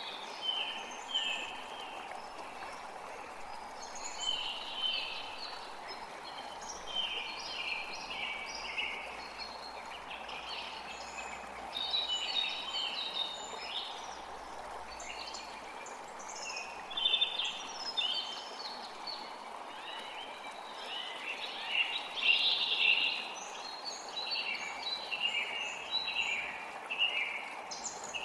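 Several songbirds chirping and singing in quick, overlapping phrases over the steady rush of a forest creek.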